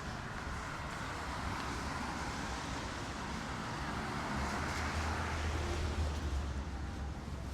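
Street traffic: a passing vehicle's tyre noise and low engine rumble swell and fade, loudest about five to six seconds in.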